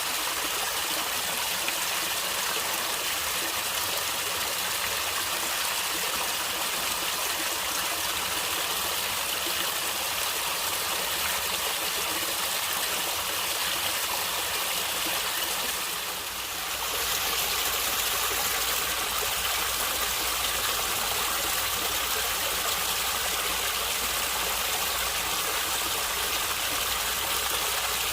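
Running water of a stream, a steady rushing and gurgling. It dips briefly about two-thirds of the way through, then carries on with a deeper low rumble.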